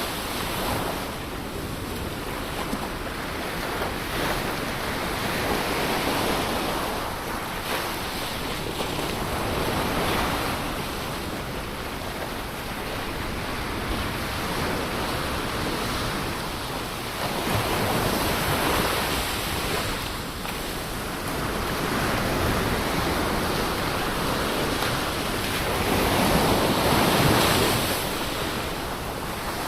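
Ocean surf: a steady rush of waves that swells every few seconds, loudest near the end.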